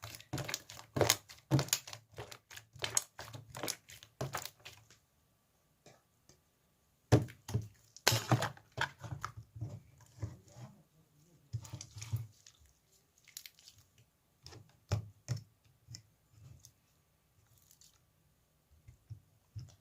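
Slime being squished and poked by hand, giving a run of sharp clicking pops and crackles, with a pause of about two seconds near the five-second mark before more pops.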